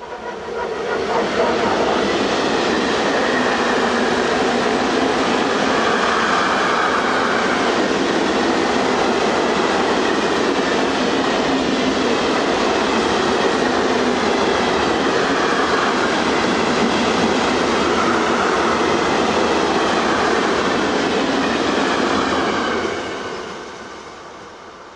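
A train passing close by at speed: the noise rises sharply about a second in, holds steady for some twenty seconds as the train goes past, and dies away near the end.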